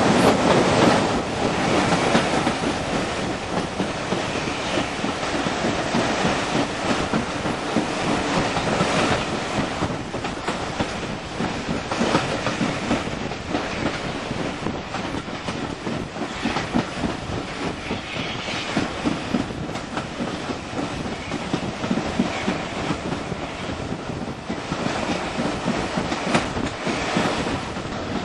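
Train running along the line, its wheels clattering steadily over the rail joints.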